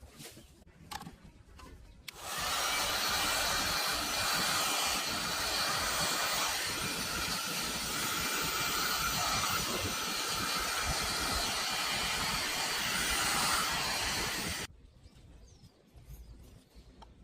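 A handheld electric power tool starts about two seconds in, runs steadily with a loud even hiss for about twelve seconds, then stops abruptly.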